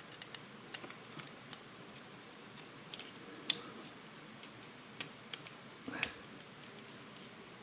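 Small plastic fischertechnik parts clicking and tapping as they are handled and shifted into place: scattered light clicks, the sharpest about three and a half seconds in and a short cluster around six seconds.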